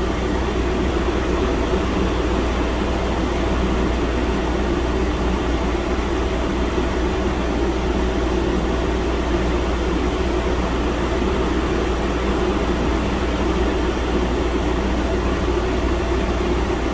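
Computer cooling fans running, a steady whirring drone with a low hum beneath.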